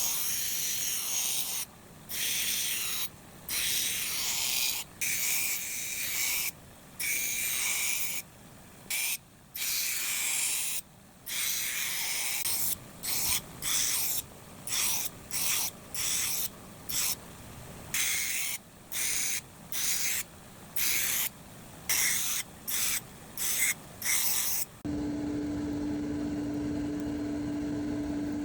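Repeated hand strokes of an abrasive rubbing across rusted steel, each a short hiss, coming faster about halfway through. About 25 s in they stop and a power tool's motor hums steadily.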